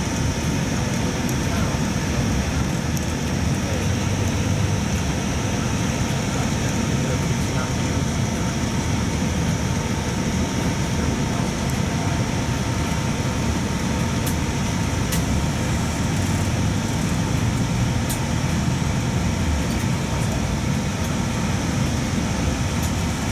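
Steady low engine and road rumble of a shuttle bus heard from inside the cabin, with faint voices underneath.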